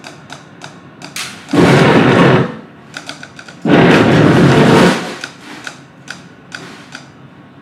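Live noise-grind performance: fast, even ticking, broken twice by sudden blasts of harsh, full-range noise about a second long each, cutting off abruptly.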